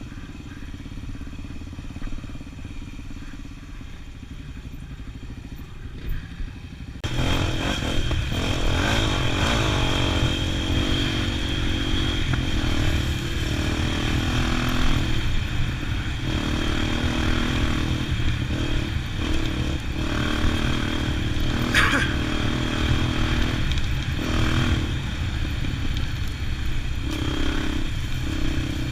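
Motorcycle engine running low and muffled, then suddenly much louder about seven seconds in as the bike rides on, engine and wind noise steady with occasional clatter from the track.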